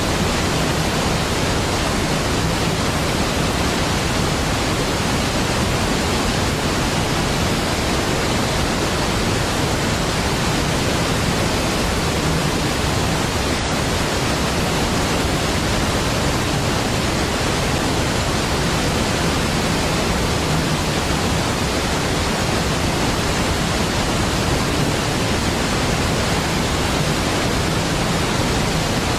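Large waterfall crashing in a steady, unbroken rush of water noise with a deep low end.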